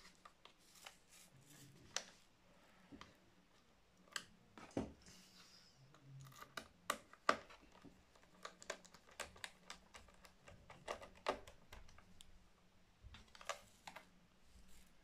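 Irregular small clicks and taps of a screwdriver and screws against a laptop's plastic case as the case screws are driven back in.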